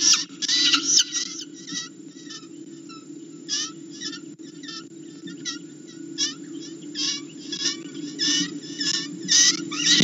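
Distress screams of a live prey bird held by a peregrine falcon chick: many short, harsh calls, often in quick clusters, over a steady low hum.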